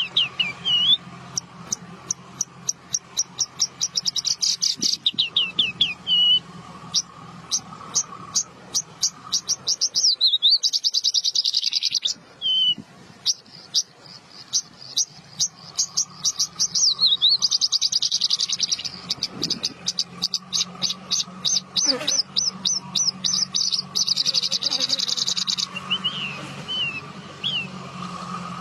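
Javan bush lark (branjangan) singing long, fast trills of rapidly repeated high notes broken by short downward-slurred whistles, with a brief pause about halfway through. A steady low hum runs underneath.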